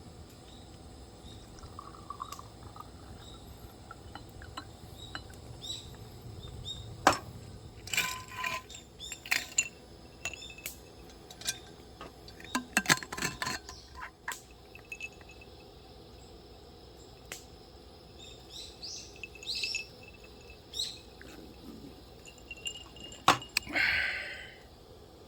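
Camping gear being handled: scattered clinks, knocks and clatters, with a few short bird chirps in the background.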